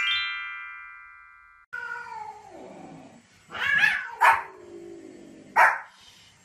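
A bright chime of rising notes rings and fades out. Then comes a long cat meow falling in pitch, followed by three sharp barks from a small Pomeranian, the first two close together and the third a second later.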